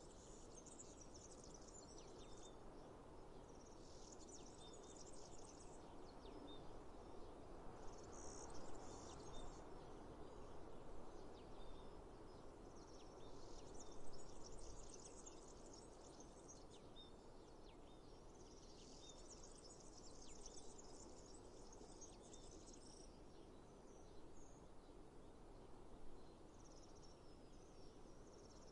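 Faint outdoor nature ambience: a soft steady rush with high-pitched chirping that comes in bursts of a few seconds, several times over, typical of insects such as crickets.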